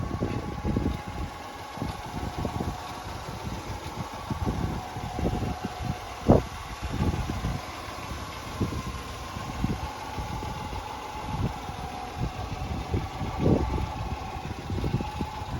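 A 1991 Honda Acty mini truck's small three-cylinder engine idling steadily over an uneven low rumble, with one sharp click about six seconds in.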